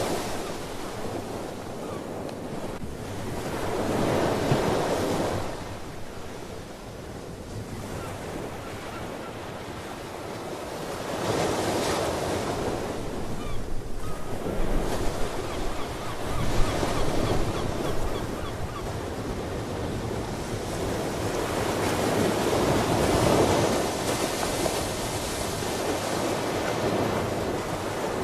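Ocean surf: waves rolling in and washing up on the shore, the sound swelling and fading every several seconds, with wind buffeting the microphone.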